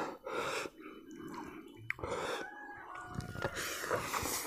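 Wet mouth sounds of a person chewing a mouthful of duck biryani eaten by hand, in soft irregular smacks.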